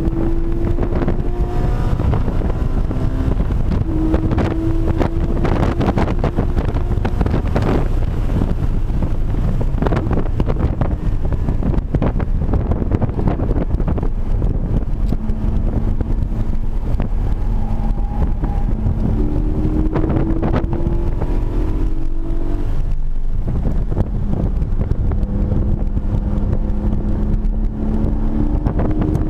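Porsche 718 Cayman GT4's 4.0-litre flat-six engine heard from inside the cabin while the car is driven on a race track. Its pitch climbs in several stretches of acceleration, near the start, around four seconds in, and twice in the second half, over a steady loud rumble of wind and road noise.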